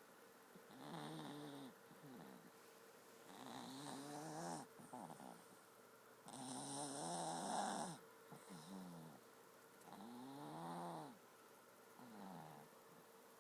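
A Chihuahua-pug mix dog snoring in its sleep: a pitched snore on each breath that rises and falls in pitch, with four stronger snores about three seconds apart and softer breaths between them.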